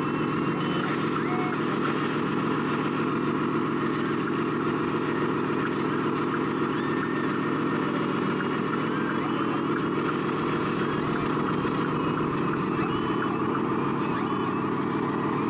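Scale RC truck's diesel engine sound idling steadily, the engine noise coming from the model's sound module.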